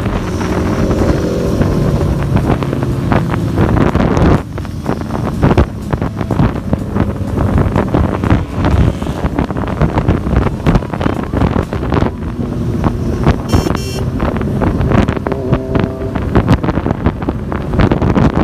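Motorcycle engine running while riding, with heavy wind buffeting the microphone. A brief high-pitched tone sounds about three-quarters of the way through.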